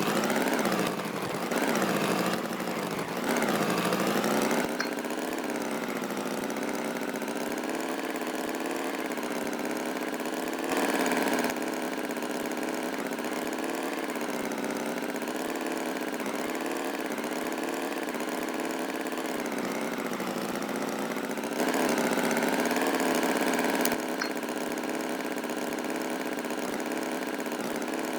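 An engine running steadily with a slightly wavering pitch. It revs up and down in the first few seconds, then settles, and swells louder briefly twice.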